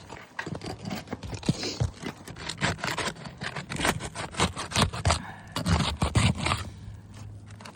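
Asphalt shingles being pried up and unsealed around a roof box vent: a quick run of scrapes and clicks that eases off near the end.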